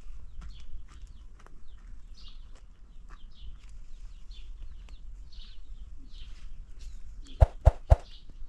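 Small birds chirping in short scattered calls over a low background rumble. Near the end come three sharp clicks in quick succession, the click sound of an on-screen subscribe-button animation.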